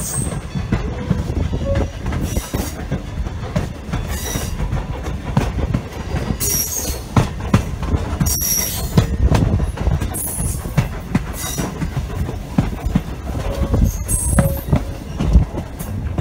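Passenger coach rolling along the track behind a steam locomotive: a steady low rumble with irregular rail knocks and several short, high wheel squeals.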